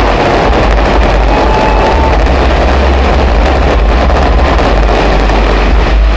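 Dense fireworks barrage, a continuous mass of crackles over a heavy low rumble of booms, loud and distorted on a phone's microphone.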